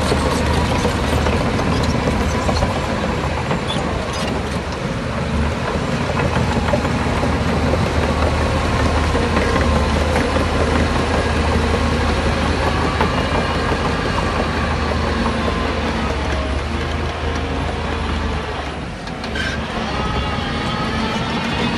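Heavy diesel earthmoving machinery running steadily under work, with a deep continuous engine hum and a brief dip in loudness near the end.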